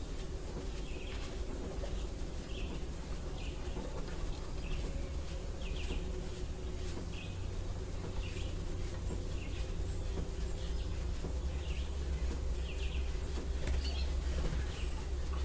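A small bird chirping repeatedly, short high chirps about once a second, over a steady low hum.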